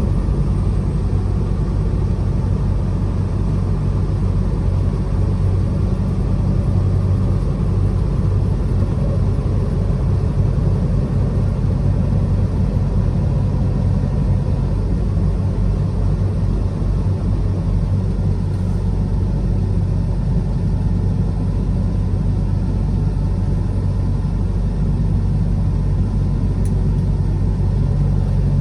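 Truck engine running steadily under way with road rumble, a constant low drone.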